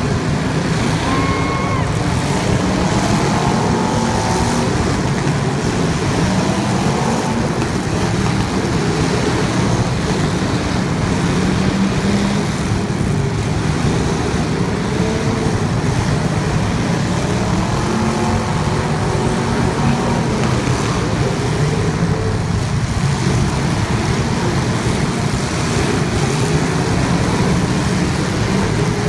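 Race car engines running hard on the track, their pitch rising and falling as the cars accelerate and back off, over a loud, constant noise.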